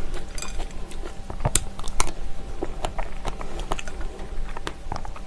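Close-up wet chewing of fresh strawberries with plain unsweetened yogurt, with soft mouth sounds and scattered sharp clicks, the loudest two about a second and a half and two seconds in.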